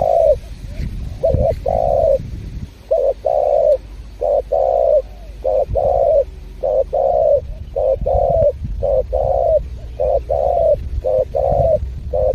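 Spotted dove cooing over and over: a vigorous run of short, repeated coos, about one to two a second in short phrases, over a steady low rumble.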